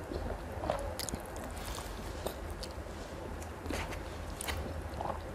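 A person eating noodles close to the microphone: soft wet chewing with scattered small smacking clicks.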